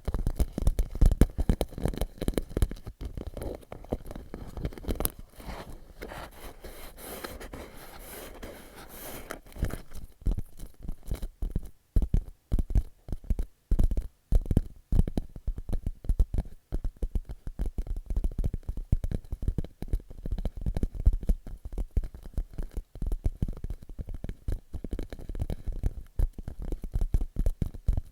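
Fingers rapidly tapping a clear plastic pouch in irregular clusters, popping a bit like popcorn being made. From about 5 to 10 seconds in there is a steadier scratching rustle, and after that the taps come in quicker bursts with short pauses.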